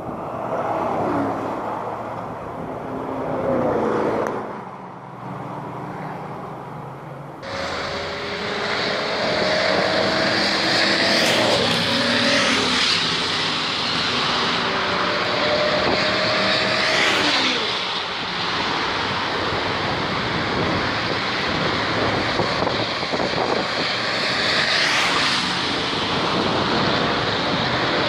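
Chevrolet Corvette V8 engines running down a race track straight as several cars drive past, one after another. The engine note drops in pitch as each car goes by.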